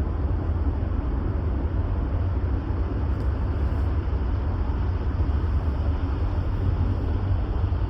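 Steady low rumble of a road vehicle in motion, its engine and tyre noise running evenly.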